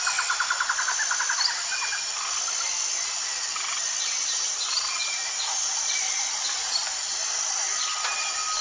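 Birds calling over a steady, high-pitched insect drone: a fast trill of about ten notes a second in the first second and a half, then scattered short chirps, and a held whistled note near the end.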